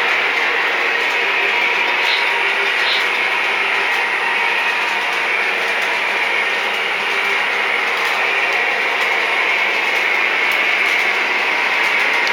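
Lionel O scale model locomotive sound, a steady hiss with a light mechanical rattle.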